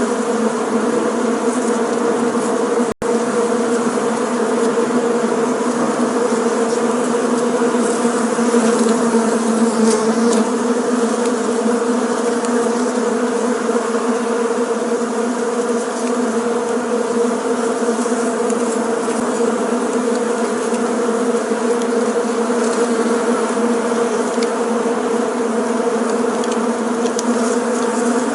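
Bees buzzing together in a steady, continuous drone with a low hum and its overtones. The sound cuts out for an instant about three seconds in.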